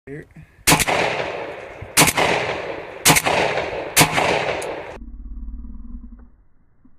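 Hatfield 20 gauge semi-automatic shotgun fired four times in quick succession, roughly a second apart, each shot trailing off in a long echo.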